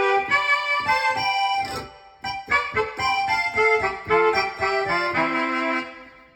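Saxophone-and-accordion sample played on a Medeli AKX10 keyboard: a melodic run of notes in two phrases, with a short break about two seconds in.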